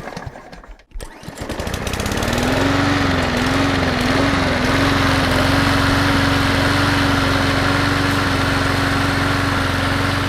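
Small gasoline engine catching and running steadily. Its pitch wavers for a couple of seconds as it settles, then holds steady, with a fast low pulsing of firing strokes underneath.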